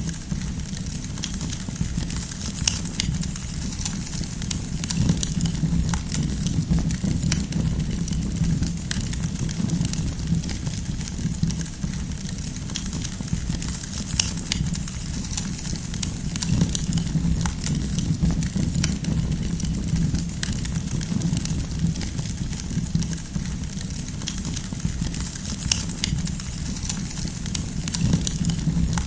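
Wood campfire burning, with many irregular crackles and small pops from the firewood over a steady low rumble.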